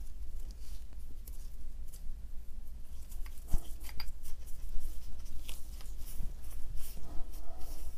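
Scattered light clicks and taps of small parts being handled and fitted by hand, a part and its O-ring going onto a rotary hammer's housing, over a faint steady low hum.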